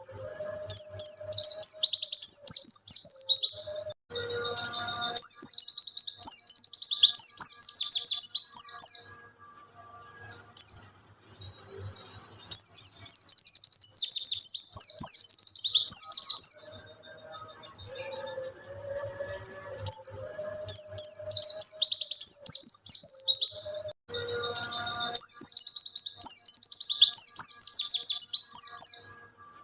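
Pleci (white-eye) singing a fast, high twittering song in bouts of about four seconds with short pauses between, fainter lower calls in the gaps; the same passage repeats about every twenty seconds, as in a looped training recording.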